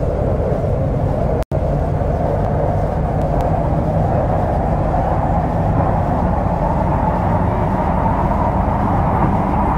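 MTR C-Train electric multiple unit running along the track, heard from on board: a steady, loud rumble of wheels on rail and running gear. The sound cuts out for an instant about a second and a half in.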